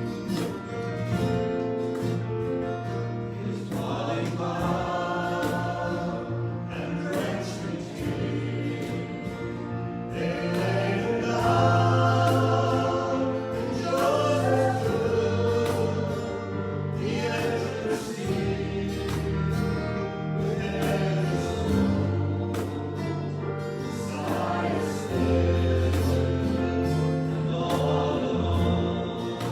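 Worship music: group singing of a gospel hymn with instrumental accompaniment, in slow sustained chords.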